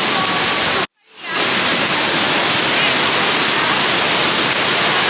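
A steady, loud rushing noise like falling water. It cuts out abruptly just under a second in and fades back within half a second.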